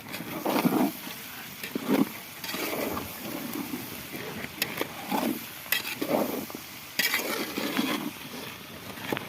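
Cooking at an outdoor fire: food stirred in a metal pot, with irregular scraping and a few sharp clinks of the utensil against the pot.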